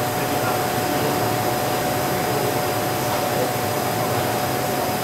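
Steady drone of workshop machinery: an even rush of noise with a constant mid-pitched hum running through it and no separate strokes or knocks.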